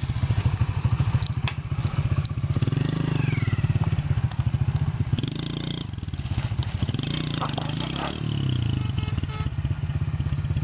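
A 110cc Honda Win motorcycle's single-cylinder four-stroke engine running, its speed and loudness rising and falling, strongest in the first few seconds and again near the end.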